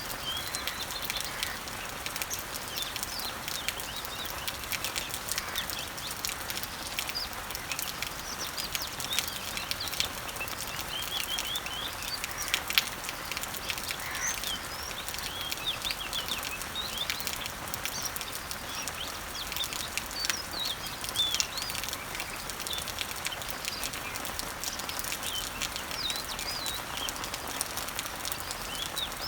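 Steady patter of rain falling on leaves, with many short bird chirps and calls scattered over it.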